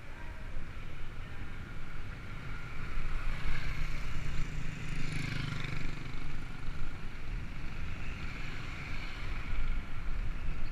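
Road and wind noise while riding, with gusts buffeting the microphone. A vehicle swells past about four to six seconds in.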